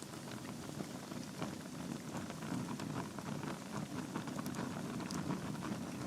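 Burning logs in a fireplace crackling: many small, irregular pops and snaps over a steady low rush of flame.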